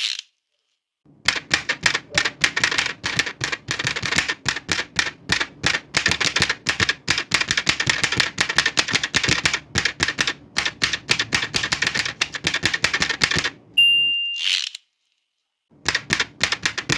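Old manual typewriter being typed on fast, a rapid run of key strikes for about twelve seconds. Then the margin bell dings once and the carriage is returned with a short zip, and after a brief pause typing starts again near the end.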